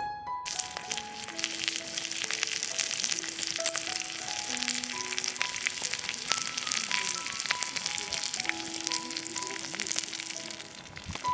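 Food sizzling and spitting on a hot thick iron griddle plate. The sizzle starts suddenly about half a second in and cuts off abruptly at the end, with soft background music underneath.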